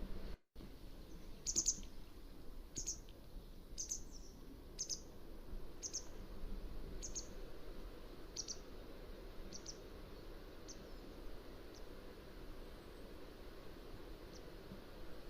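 Mountain wagtail calling: a series of about ten short, high calls roughly one a second, growing fainter, then one more faint call near the end, over a steady low background hiss. The sound cuts out completely for a moment just after the start.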